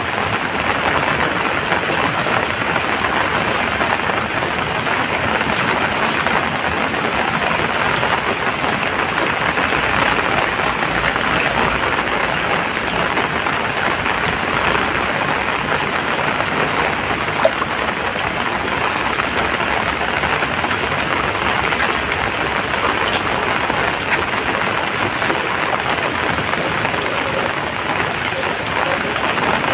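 Heavy rain falling steadily, a dense even patter with no let-up, and a single sharp click a little past halfway.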